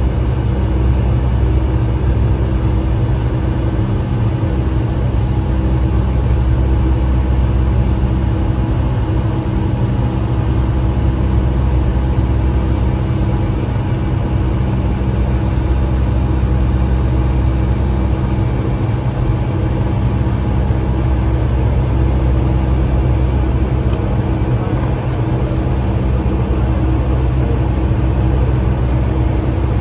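Steady jet engine drone and air noise inside the cabin of a Boeing 757-200 airliner. A deep, even rumble carries several steady humming tones and does not rise or fall.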